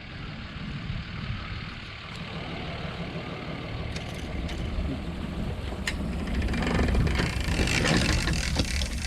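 A vehicle engine running steadily with a low rumble, getting louder about two-thirds of the way through, and a few sharp clicks.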